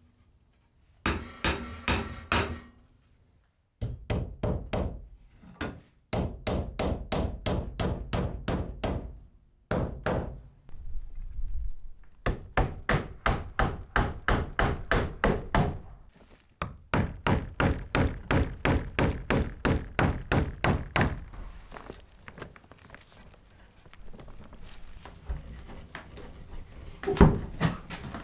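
Rapid runs of sharp knocks, about three a second, in bursts a few seconds long separated by short pauses, with a few louder knocks near the end.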